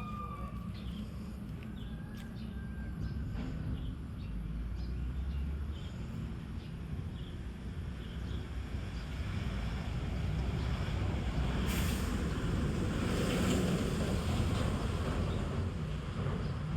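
Wind rumbling on the microphone over steady outdoor noise, growing louder past the midpoint, with a few faint scattered ticks.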